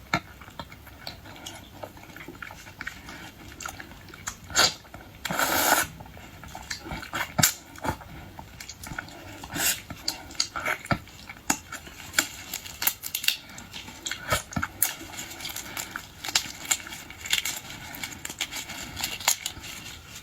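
Close-miked eating of boiled seafood: chewing and smacking, with many sharp, irregular clicks and cracks throughout and a longer, noisier burst about five and a half seconds in.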